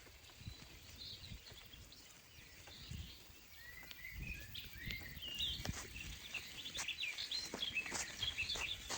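Small songbirds chirping and calling in short, varied notes, growing busier about halfway through, with a few sharp clicks and knocks among them.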